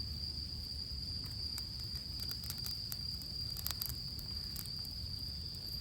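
Night insects trilling in one steady high tone, with scattered faint crackles and clicks from a small campfire of damp twigs and tissue just catching.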